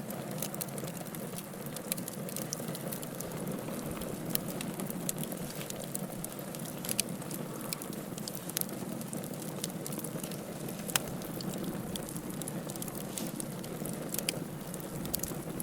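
Wood fire burning in a fireplace: a steady low hiss and rumble with frequent sharp crackles and pops from the burning logs, one louder pop a little after the middle.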